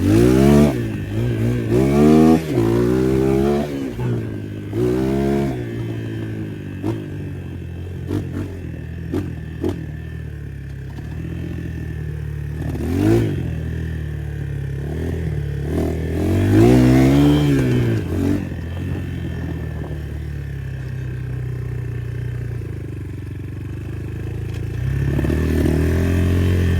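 250 motocross bike engines: one runs steadily at a low, even note, while revs repeatedly rise and fall in pitch over it, near the start, about five seconds in, and around thirteen and seventeen seconds. Scattered sharp clicks come between the revs, and the engine gets louder near the end.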